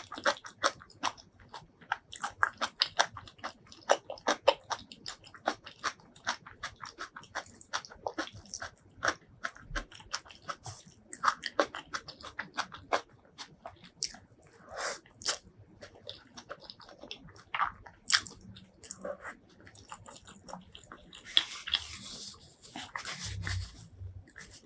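Close-miked chewing of crunchy food: rapid, crisp crunches with each bite, thinning out after the first half, then a longer noisy stretch near the end.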